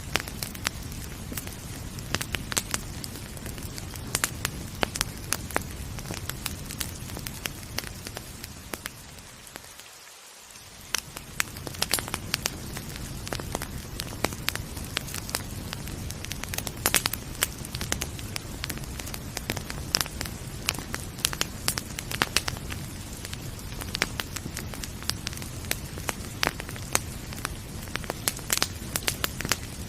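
Wood fire crackling with frequent sharp pops, over a steady rain hiss. About ten seconds in, the whole sound briefly fades down and comes back up.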